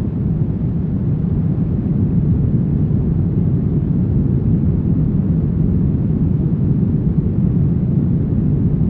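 Steady brown noise: a deep, even rushing hiss weighted toward the bass, with no change or events.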